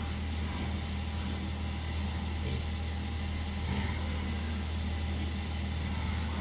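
A steady low machine hum, engine-like, with a constant noisy rush over it and no change in pitch.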